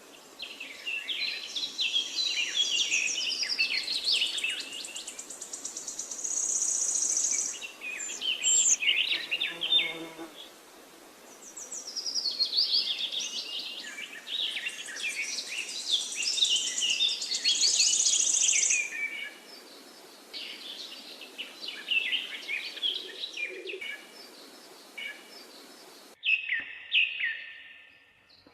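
Several songbirds singing and chirping in overlapping phrases, with a high buzzing trill that comes and goes. Near the end the background hiss drops out abruptly and a single short bird phrase follows.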